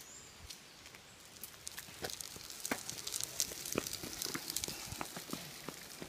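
Scattered, irregular light crunching clicks, growing denser from about two seconds in.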